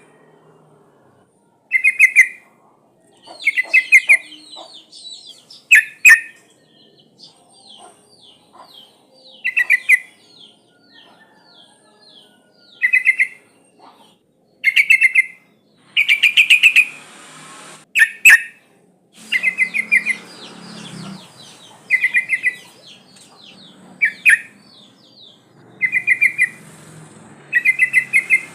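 Yellow-vented bulbul (trucukan) calling: short, loud bursts of rapid bubbly notes come about every two seconds, with trains of fainter, quicker chirps between them. The calls are presented as a female calling to a male.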